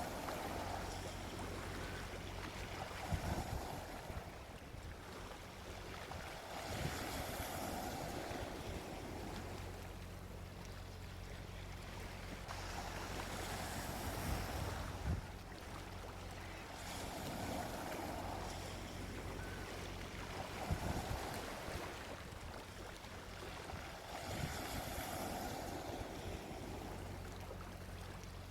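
Gentle sea waves breaking and washing up the shore, swelling and fading every five to seven seconds, over a steady low rumble.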